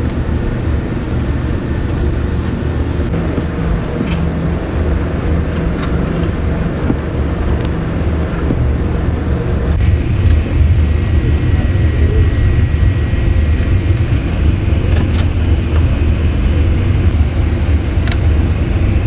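Steady low rumble of a Boeing 787-8 rolling on the ground, heard from inside the cabin while taxiing after landing. About ten seconds in, a steady high whine joins it.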